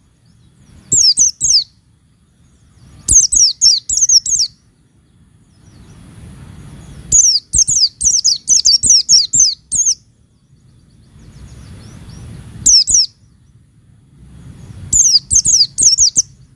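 White-eye (pleci) songbird chirping in quick, high, falling notes. The chirps come in short phrases, with a longer run of chirping in the middle and short pauses between the phrases.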